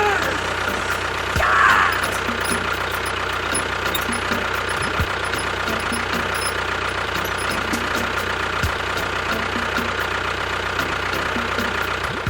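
An engine running steadily at idle, with a short rasping sound about a second and a half in and a few faint low thumps.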